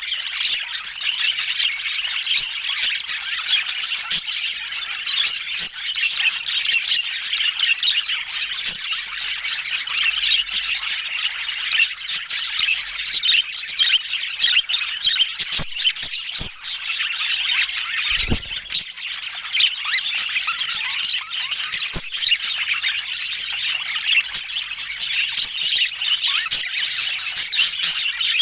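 Budgerigars chattering nonstop, a dense mix of warbles, chirps and squawks, with a few light clicks and one dull thump a little past the middle.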